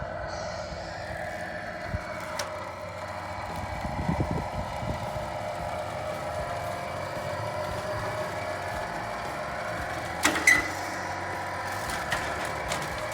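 Tamiya King Hauler radio-controlled model truck running with a steady whine. A couple of sharp knocks come about ten seconds in.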